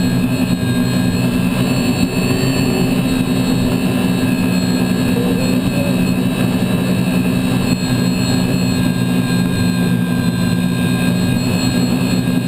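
Unlimited hydroplane's Lycoming T55 turbine engine running steadily, heard from onboard: a constant whine over a low drone.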